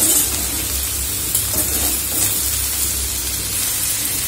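Sliced okra sizzling steadily in hot oil in a kadai, with a few scrapes of a stirring spoon near the start and a low hum underneath. The okra is nearly done, frying with salt, chilli powder and coriander powder until the raw chilli smell cooks off.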